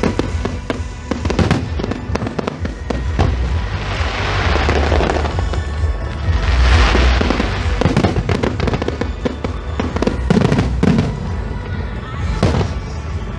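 Aerial fireworks bursting in quick succession: many sharp bangs, with dense crackling that swells up twice, at about four and seven seconds in.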